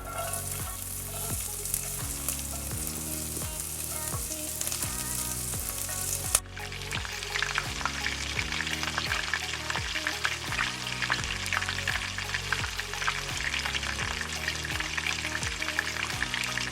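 Chopped onion sizzling in hot oil in a frying pan, a steady high hiss at first; about six seconds in there is a sharp knock, after which the sizzle becomes a denser crackle.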